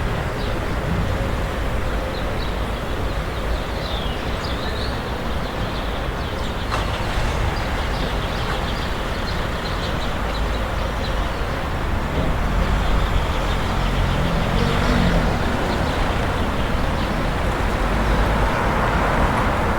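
Street traffic on a town street: a steady rumble of passing cars that grows somewhat louder a little over halfway through as a vehicle comes closer.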